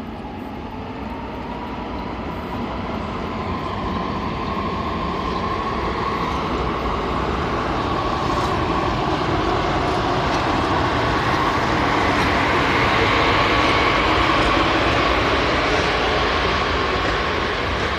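Passenger train hauled by a ChS2K electric locomotive approaching, with a rumble of running gear and a steady whine. It grows steadily louder for about twelve seconds, then eases slightly.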